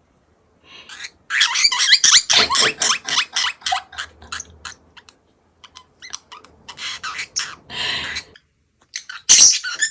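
Pet parrotlet giving a rapid run of short, high-pitched chattering calls, a giggle-like laugh, with a short pause and a louder burst of calls near the end.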